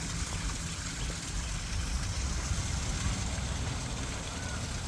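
Steady outdoor background noise with a heavy low rumble and a constant hiss, unchanging throughout.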